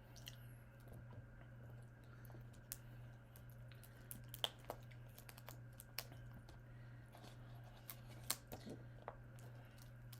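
Faint, scattered clicks and crackles of whole prawns being handled and pulled apart by hand while eating, over a steady low hum.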